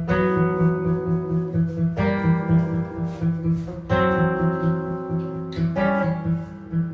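Improvised jazz guitar: chords struck about every two seconds and left to ring, over a steady low pulsing note.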